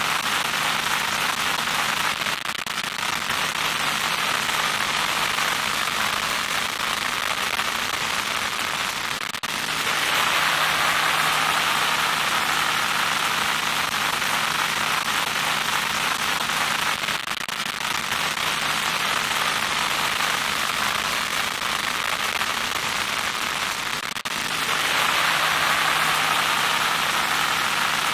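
Loud static noise: a steady crackling hiss with a low hum beneath it. It grows brighter and louder about ten seconds in, eases back around seventeen seconds, and swells again near the end.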